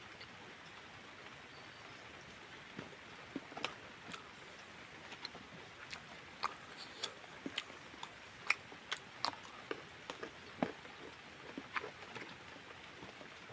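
A person chewing food with mouth open, close to the microphone: irregular wet lip smacks and sharp mouth clicks over a steady faint hiss.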